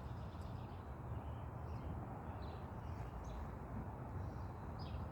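Quiet outdoor ambience: a steady low wind rumble on the microphone, with a few faint, short bird chirps scattered through.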